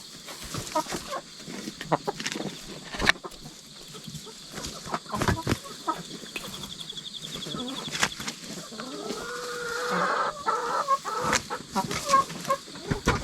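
Domestic hens clucking, with scattered sharp clicks and knocks; the sound grows louder and busier for a couple of seconds around ten seconds in.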